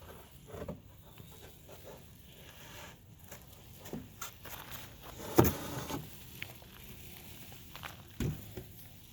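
A person moving about on foot, with rustles and scattered soft knocks; the loudest is a thump about five and a half seconds in, and another comes just after eight seconds.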